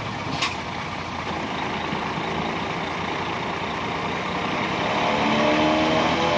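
Heavy earthmoving machine's diesel engine running. A short sharp hiss comes about half a second in. From about five seconds in the engine speeds up, rising in pitch and getting louder.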